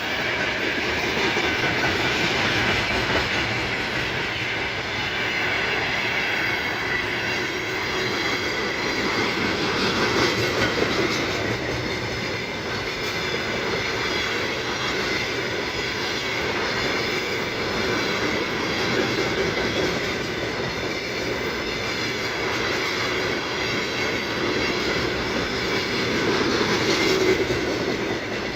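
Freight train cars rolling past at steady speed: a continuous rumble and clatter of wheels on the rails, with a faint high-pitched ringing over it.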